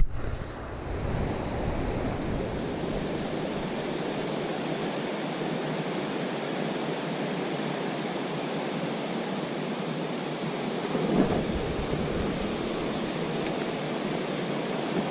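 Steady rushing water of a mountain trout stream tumbling over falls, an even hiss, with one brief bump about eleven seconds in.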